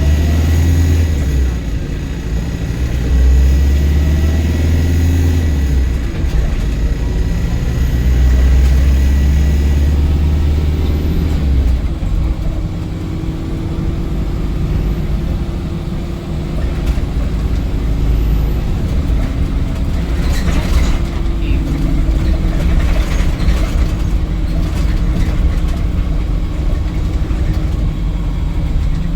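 Inside a Volvo B5LH hybrid double-decker bus: the four-cylinder diesel engine runs hard for about the first twelve seconds, then drops away, leaving a steady electric hum and whine as the bus slows under regenerative braking.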